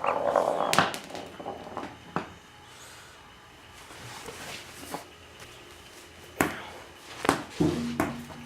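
Sharp knocks and taps on a hard floor, a few seconds apart, with a scuffle at the start: a small ball being hit and batted about in play with a kitten.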